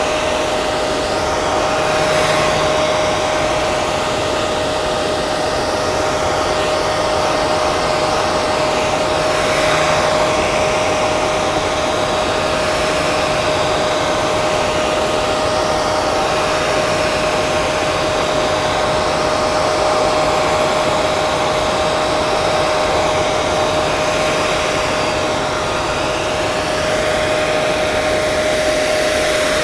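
Hair dryer running steadily: a continuous rush of airflow with a steady motor whine.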